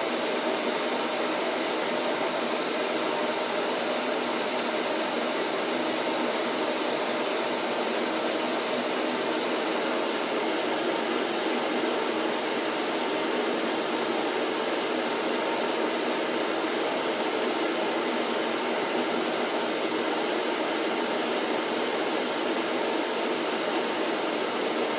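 Vacuum cleaner running steadily: an even, unbroken motor and airflow hum with no changes in pitch or level.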